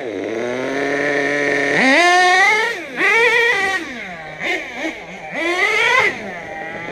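Small nitro engine of an HPI Savage RC monster truck, tuned rich, running with a high buzzing note. It holds fairly steady at first, then revs up sharply about two seconds in, again about three seconds in, and once more near the end, dropping back between the revs as the throttle is worked.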